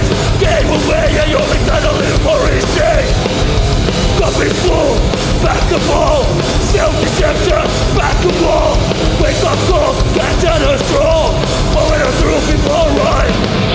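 Hardcore punk band playing live, loud and dense with a driving beat.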